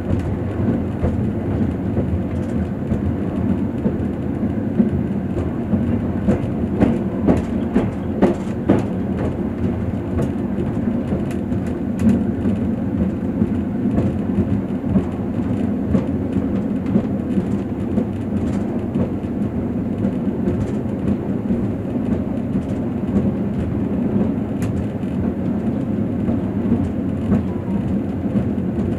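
Passenger train running along the track, heard from inside the carriage: a steady low rumble with irregular sharp clicks and rattles from the wheels and car body, thickest about a quarter of the way in.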